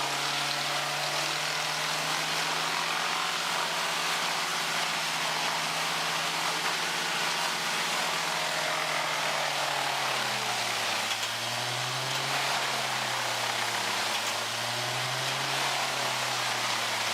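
Wood chipper running at full speed with a dense, grinding noise over the engine; from about ten seconds in the engine pitch sags and recovers again and again as it takes load.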